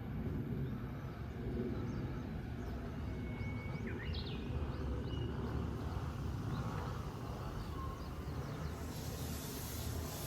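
Outdoor ambience: a steady low rumble with a few short bird calls about four to five seconds in, and a high hiss coming in near the end.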